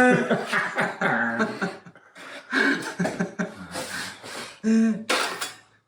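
People's voices laughing and chatting, with several loud bursts of voice and short pauses between them.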